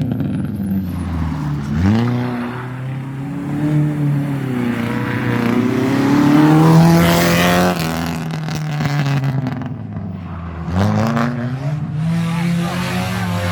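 Rally car engine revving hard as the car drives past, louder at mid-pass. The note drops and then climbs steeply about two seconds in and again near the end, as the driver lifts and gets back on the throttle.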